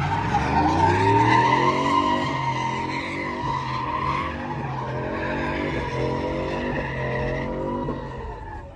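Truck engine revving up hard and held at high revs while its tires squeal through a drift or burnout. The squeal and the engine fade out near the end.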